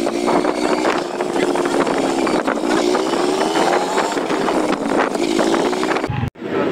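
A Honda motorcycle's single-cylinder engine running while being ridden, its pitch rising and falling with the throttle. It cuts off suddenly near the end.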